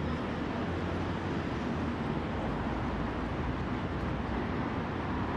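Steady rumble and hiss of a metro train or station, even throughout with no distinct knocks or voices.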